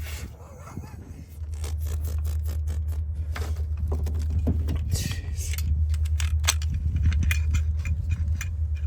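Small metallic clicks and scrapes of keys and lock parts being handled at a van's side-door lock, over a steady low rumble that sets in about a second and a half in.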